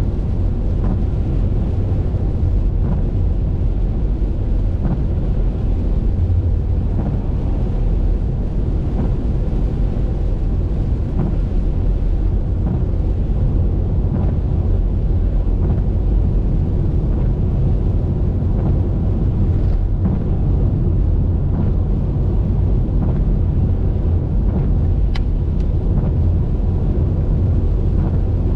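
Steady low rumble of a car driving on a wet highway: tyre and wind noise, with faint ticks about every two seconds.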